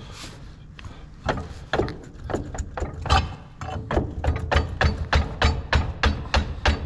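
Ratchet being worked in strokes to pull a track chain together: sharp metallic clicks, irregular at first, then settling about four seconds in into a steady run of about three to four clicks a second.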